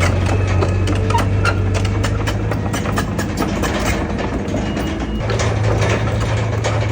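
Bulldozer's heavy diesel engine running, with a dense run of metallic clicks and clanks. The low engine drone fades for a few seconds and comes back strongly about five seconds in.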